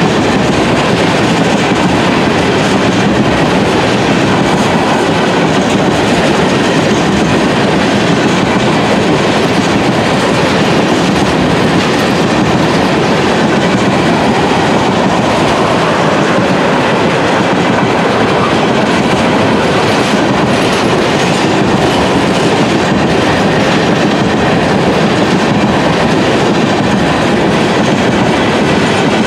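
Freight train of tank cars rolling past at trackside: loud, steady noise of steel wheels running on the rails.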